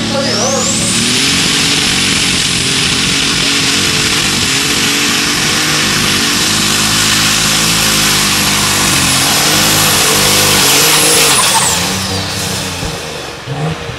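Light super stock pulling tractor's turbocharged engine at full throttle under load during a pull. A high turbo whistle rises in the first second or so and holds over the engine's rumble for about ten seconds, then falls away near the end as the throttle comes off.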